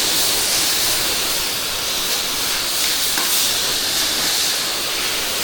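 Steady hiss of a pressure washer's water spray.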